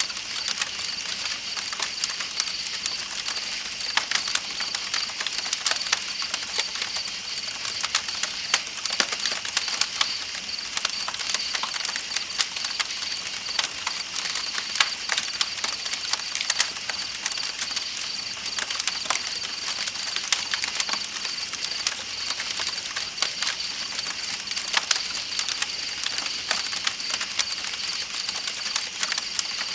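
Campfire crackling with frequent sharp pops and snaps, over a steady, high, pulsing chirp of night insects and a soft hiss of flowing river water.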